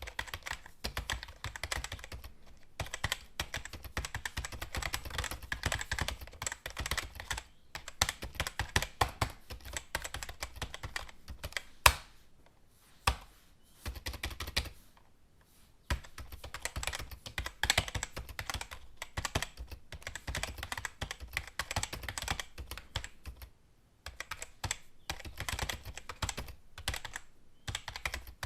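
Computer keyboard typing: rapid runs of keystrokes broken by short pauses, with one louder key strike about halfway through.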